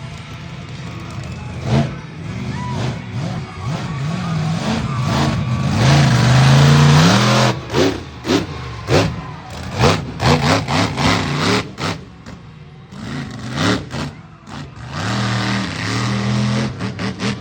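Monster truck engine revving hard, its pitch rising and falling, loudest about six to seven seconds in. A string of sharp bangs follows between about eight and twelve seconds in, then the engine revs up again near the end.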